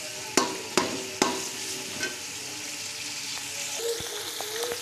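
Boiled chicken and onions sizzling as they fry in an aluminium pot, stirred with a slotted metal spoon that clinks sharply against the pot three times in the first second and a half.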